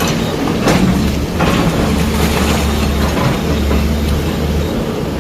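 Heavy diesel machinery running with a steady low drone, with a few sharp knocks and clanks, the first about a second in.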